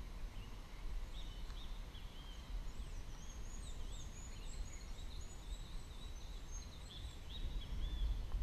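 Small birds chirping in quick, high-pitched notes and short whistles, starting about half a second in and stopping shortly before the end, over a low steady rumble.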